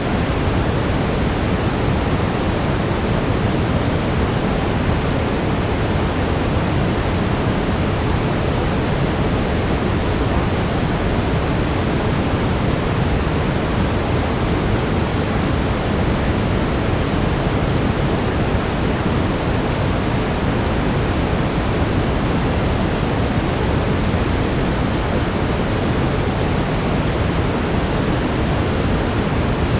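Steady brown noise: an even, deep hiss that is heaviest in the bass and thins out toward the treble, with no rhythm or change.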